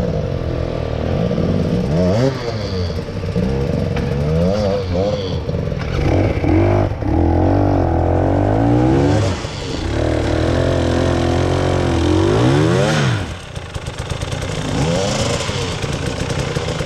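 Off-road trail vehicle's engine revving up and down again and again as it works over rough ground, easing off briefly about three-quarters of the way through.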